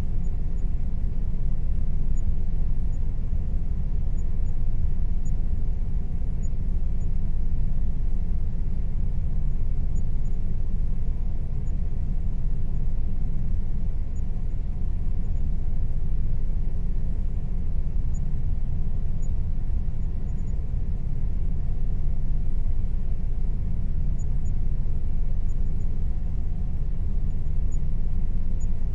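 Air conditioner running steadily: an even, low rushing noise with a faint constant tone above it.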